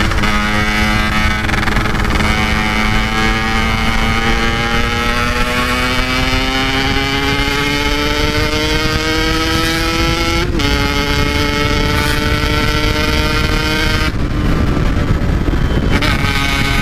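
Yamaha RX-King's 135 cc two-stroke single running through its standard-style packed exhaust, the note climbing steadily as the bike pulls in gear, dropping sharply at a gear change about ten seconds in, then holding steady. Wind rumble on the microphone underneath.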